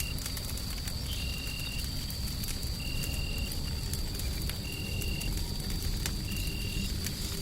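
Fire crackling in sparse clicks over a steady low rumble of white noise. A faint high steady tone runs through it, and a short high chirp repeats evenly, four times, about every second and a half.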